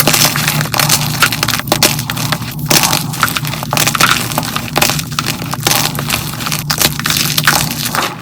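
Blocks of dyed gym chalk crushed by hand, crunching and crumbling in a dense run of quick crackles.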